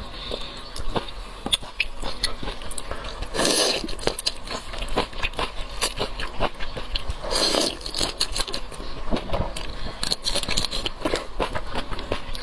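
Close-miked eating of shrimp: chewing and biting with many small crackling, crunching clicks, and two longer, louder sounds about three and a half and seven and a half seconds in.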